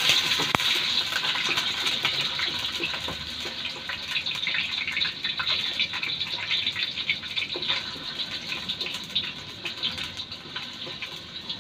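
Diced carrots sizzling in hot oil in a stainless steel wok as they are pan-fried to brown: a steady hiss full of small crackles, loudest as they first hit the oil and easing off gradually.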